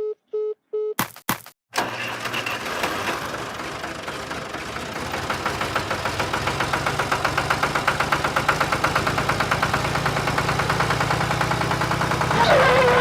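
Three short beeps, then an engine starts and runs with an even, rapid chugging pulse that grows stronger and slightly faster.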